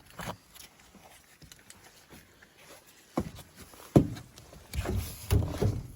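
Handling noises: a few knocks and clunks, the loudest about four seconds in, then a cluster of thumps and rustling near the end.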